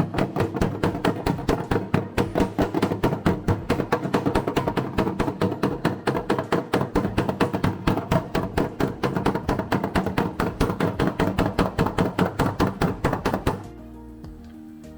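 Body hammer striking the AE86's steel body panel in a fast, even run of about five blows a second, working down the high, stretched spots of the metal; the hammering stops suddenly near the end. Background music plays underneath.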